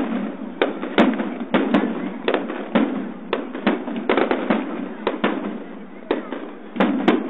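Aerial fireworks display: a rapid, irregular series of loud shell bursts, about two or three bangs a second, over a steady background noise.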